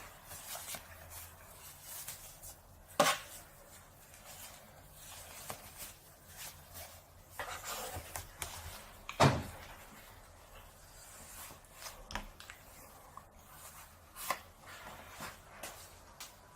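Scattered knocks, clicks and rubbing handling noises in a small room, with two louder knocks about three seconds in and about nine seconds in.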